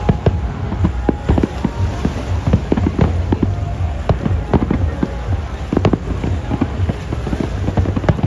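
Fireworks going off: many sharp bangs and crackles in quick, irregular succession over a steady low rumble.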